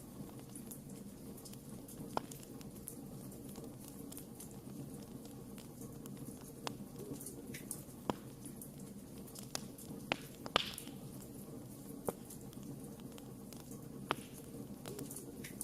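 Wood fire crackling: a steady low rush of burning, dotted with sharp irregular pops. The loudest pop comes about ten and a half seconds in, followed by a brief hiss.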